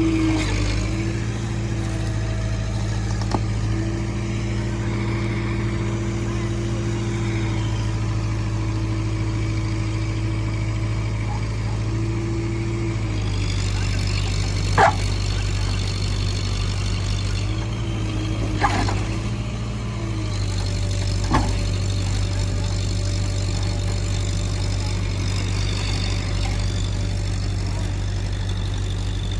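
Heavy diesel engine running steadily, its tone shifting about halfway through, with three short sharp knocks in the second half.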